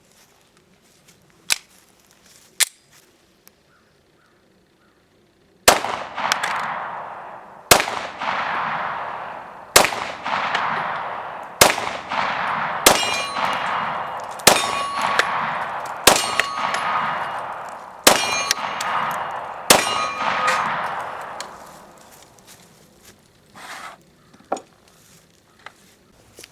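FMK 9C1 9mm pistol firing 124-grain Speer Gold Dot hollow points, about nine shots spaced roughly two seconds apart, each followed by a fading echo. The later shots are followed by the ring of the steel target being hit. A couple of faint clicks of gun handling come first.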